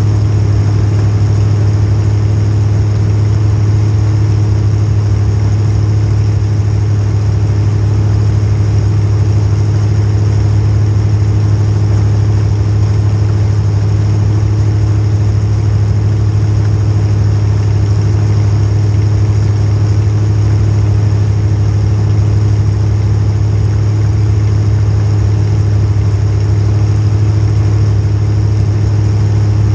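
Demolition derby car's small-block Chevy V8 running at a steady, loud idle, holding one even note with no revving.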